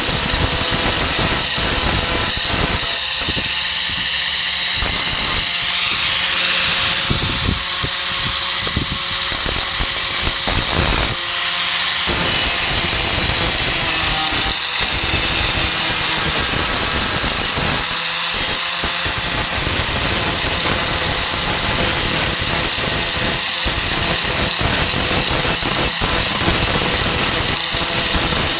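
Handheld 4-1/2 in. angle grinder with a Type 27 grinding disc running continuously against steel, grinding down a welded patch on a truck tailgate, with brief dips in the noise a few times along the way.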